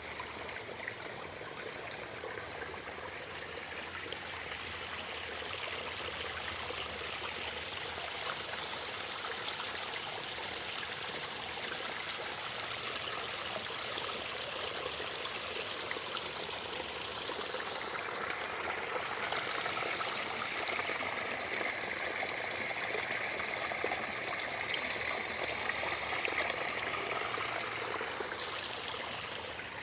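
Water in a stream running steadily. In the second half, a faint wavering higher sound joins it.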